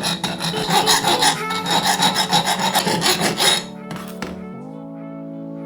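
Homemade drill-driven drum sander grinding against wood, a rough rasping over the steady hum of the drill motor. About three and a half seconds in, the sanding stops. The drill keeps running on its own, and its pitch rises a little as it speeds up without load.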